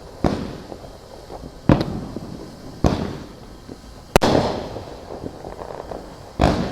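Consumer fireworks exploding: five sharp bangs one to two seconds apart, each trailing off into a fading rumble.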